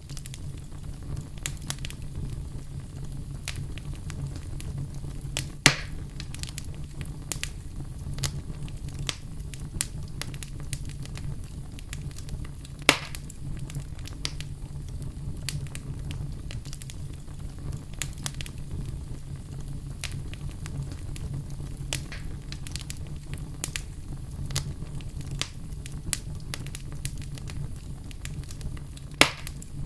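Fire burning in a fireplace: a steady low rumble with frequent small crackles and three louder pops, about 6, 13 and 29 seconds in.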